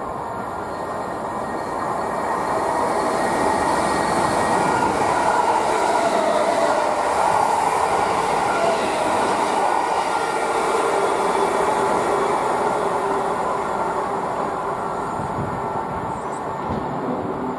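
Greater Anglia Class 317 electric multiple unit running past along the platform: the steady noise of its wheels on the rails swells over the first couple of seconds, holds through the middle, and fades as the train moves away.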